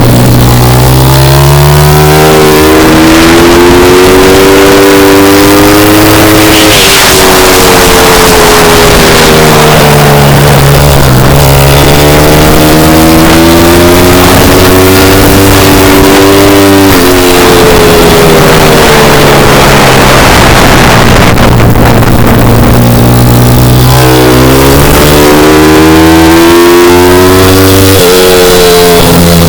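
Pit bike engine running hard and very loud, its pitch climbing over a few seconds and then dropping off sharply, again and again, as the bike accelerates through the gears and backs off, over a constant rushing noise.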